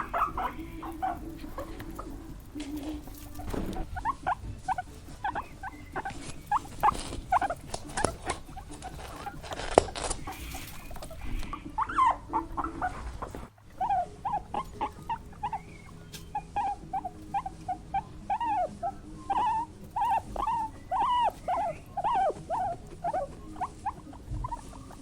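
Small animals squeaking, many short high squeaks in quick succession, with a sudden break about halfway through and a denser run of squeaks after it.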